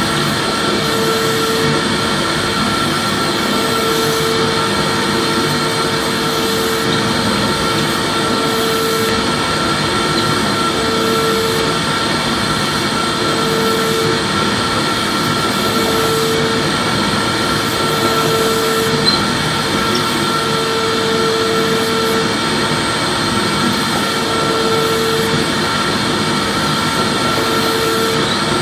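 Vacuum cleaner running steadily: a constant rushing noise with a high motor whine, and a lower hum that comes and goes about every two and a half seconds.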